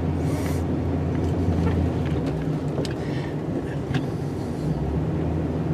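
Snow plow truck's engine running steadily while it drives forward to push snow. The low engine drone eases off a little after about two seconds and builds again near the end.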